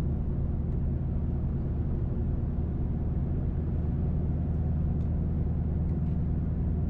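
Cabin noise of a 2005 Mercury Grand Marquis cruising at a steady speed: a steady low drone of its 4.6-litre V8, road and tyres, with the muffler-deleted H-pipe exhaust only mildly heard.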